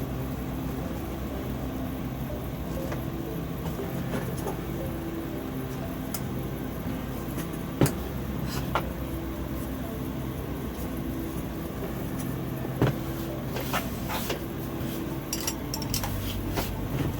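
Scattered clinks and taps of a craft dome cover being handled and pushed over a nest of small decorative birds as it refuses to fit, with a sharper knock about eight seconds in and another about thirteen seconds in, then a run of quicker taps near the end.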